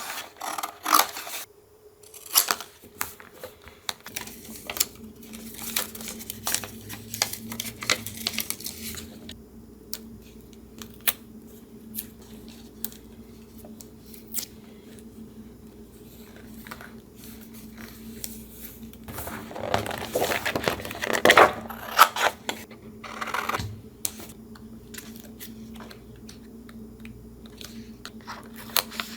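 Paper being handled for collage: scattered rustles, taps and scrapes of paper, with a louder, denser stretch of rustling and tearing about twenty seconds in, over a faint steady hum.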